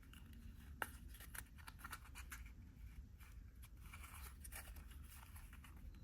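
Light clicks, taps and scratchy rubbing of small plastic miniatures being handled, with one sharper click about a second in.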